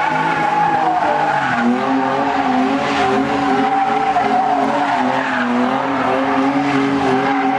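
Car tyres squealing without a break on pavement, the pitch wavering slowly up and down as the car slides.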